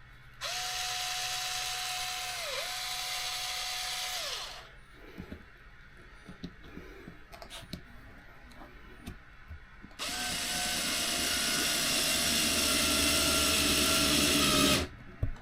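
Cordless power screwdriver driving small screws in two runs of a few seconds each, its motor whining steadily; the first run dips briefly in pitch partway, and the second sags slightly in pitch as it goes. Light clicks of handling come between the runs.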